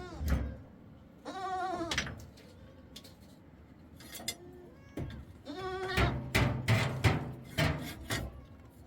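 Bleating of goats or sheep: one wavering call about a second and a half in and a fainter one about five and a half seconds in. From about six to eight seconds a run of loud knocks and thuds follows.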